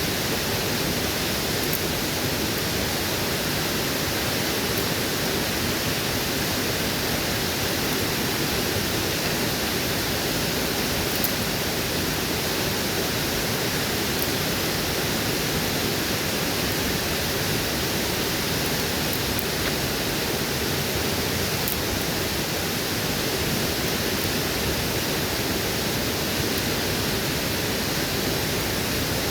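Waterfall: water falling and rushing in a steady, unbroken roar, with a few faint clicks here and there.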